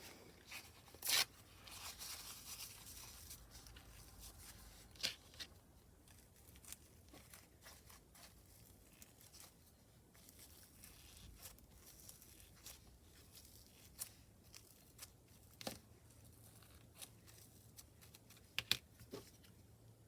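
Faint rustling and scattered small clicks and taps of small objects and craft materials being handled, with a sharper click about a second in.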